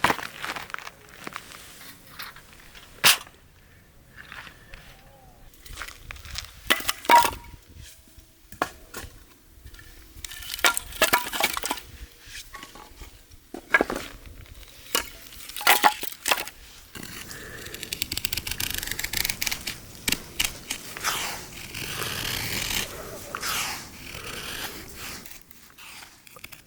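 Hands handling camp gear: scattered clinks, knocks and small cracks, then a steady rushing noise lasting about eight seconds in the second half.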